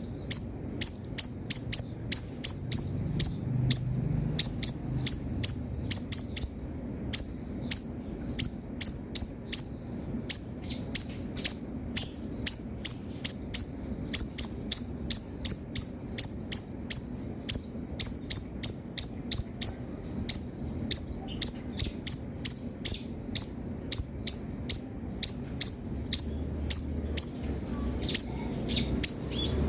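Kolibri ninja (konin) sunbird singing: a fast, unbroken run of short, sharp, high chirps, about three a second, in tight clusters.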